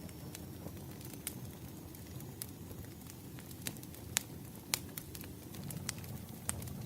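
Wood fire crackling: scattered sharp pops and snaps at irregular intervals over a steady low rumble of burning logs.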